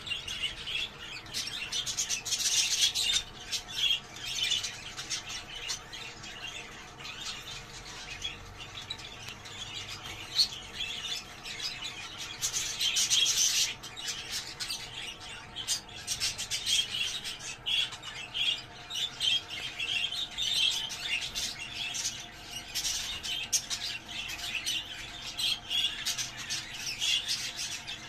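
Budgerigars chattering and warbling continuously, a dense run of short chirps and squawks.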